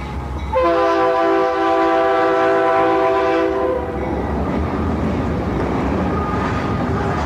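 CSX locomotive's air horn sounding one long blast of about three seconds, a chord of several notes, over the rumble of the moving train, which carries on after the horn stops.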